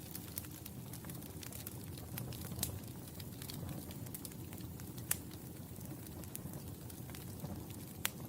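Wood fire crackling in a fireplace: a steady low rumble of flames under frequent small crackles, with a few sharper pops, the loudest about two and a half, five and eight seconds in.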